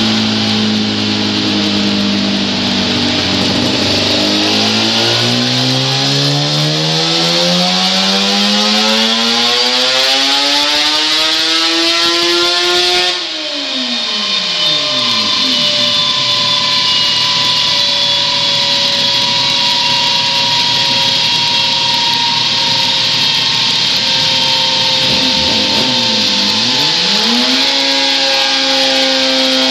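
Suzuki RG500 Gamma's two-stroke square-four engine running on a dyno: from about four seconds in the revs climb steadily for about nine seconds in a full-throttle pull, then the throttle shuts and the revs fall away sharply. It then holds a steady speed, dips briefly near the end and picks up again.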